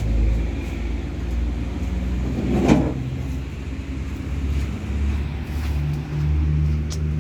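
Steady low rumble of a motor vehicle engine running close by, with one short sharp sound a little under three seconds in.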